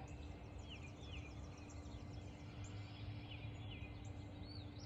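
Small birds calling faintly: short high chirps and quick twittering runs, repeated throughout, over a steady low hum and outdoor background noise.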